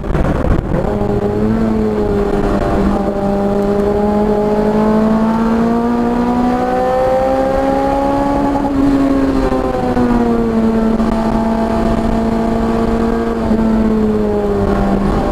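Car engine at speed on a race track. The revs climb slowly for about eight seconds, drop fairly quickly about nine seconds in, then hold steady and ease off near the end.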